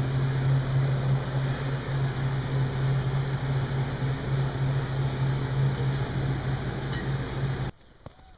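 Steady machine hum with a strong low drone and a noisy rush above it, which stops abruptly near the end.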